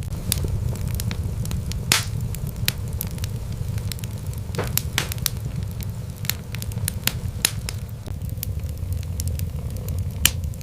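Wood fire crackling and popping in irregular sharp snaps over a steady low rumble, with a louder pop about two seconds in and another near the end.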